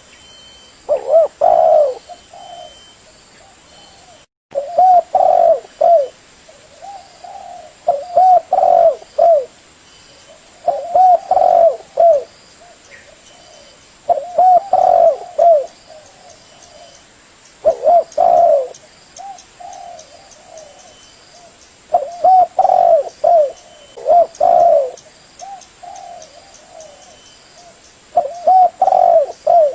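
Spotted dove (tekukur) cooing: phrases of several short hooting coos, one phrase every three to four seconds. The sound drops out for a moment about four seconds in.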